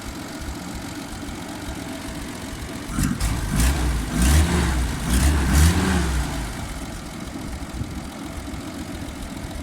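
Dodge WC-62's flathead straight-six idling smoothly, revved up and let fall back about three times in quick succession from about three seconds in, then settling back to a steady idle.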